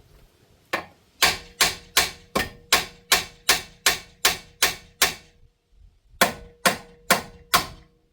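Hammer blows on the steering arm of a VN/VP Holden Commodore, knocking the tie rod end's tapered joint loose: about a dozen evenly spaced ringing metal strikes, roughly two and a half a second, a short pause, then four more.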